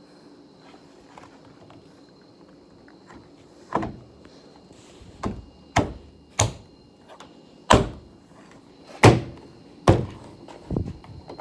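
A series of about eight sharp thunks and knocks at irregular intervals, starting about four seconds in, from work on the door of a 1968 Saab 95.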